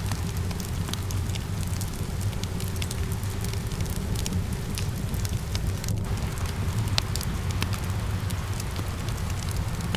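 Wood fire crackling in a fireplace, with many sharp pops and snaps, mixed with a steady patter of rain and a low, steady rumble.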